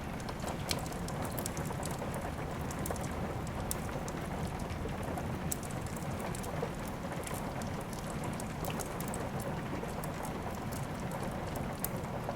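Steady rain mixed with a crackling wood fire: an even rushing wash of rain with frequent sharp pops and ticks scattered through it.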